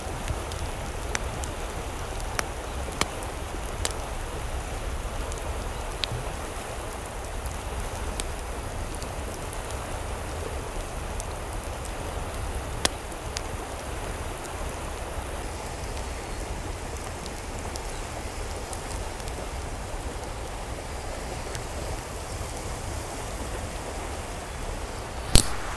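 Steady rain falling, an even hiss with scattered sharp drop ticks. A louder sharp click comes near the end.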